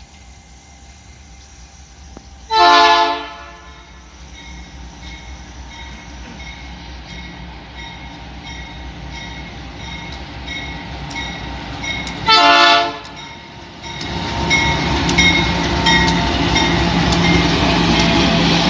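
Diesel freight locomotive's horn sounding two short blasts about ten seconds apart as a pulp train approaches. Its engine and wheels grow steadily louder and become loud over the last few seconds, with a regular ticking running underneath.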